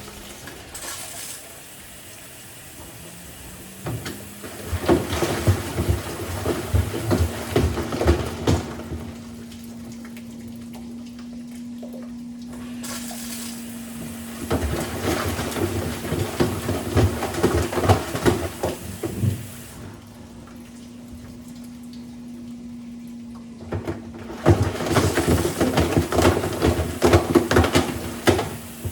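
LG WM6700HBA front-load washing machine tumbling its drum in a wash or rinse: three bursts of water sloshing with knocks, each several seconds long, separated by quieter pauses, over a steady hum. A calculator is tumbling in the drum.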